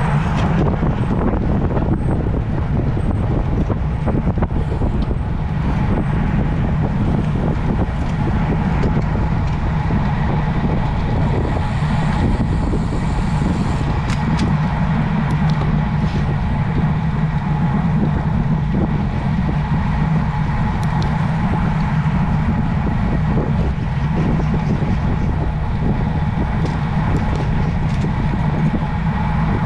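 Steady rumble of wind and road noise on the microphone of a camera carried on a road bike while riding, unbroken throughout.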